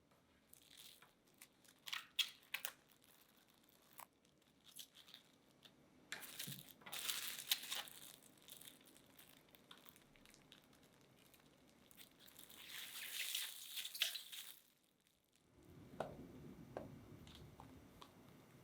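Baking paper crinkling and rustling as it is handled, in several separate bursts, the longest near the middle and another about two-thirds of the way through.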